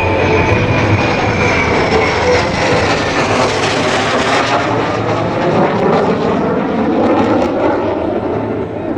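Jet aircraft flying past, a loud steady roar whose high whine falls in pitch as it goes by.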